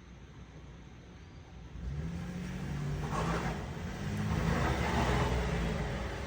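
A car engine coming on about two seconds in and running louder through the rest, its low tone wavering as it revs: a car arriving home.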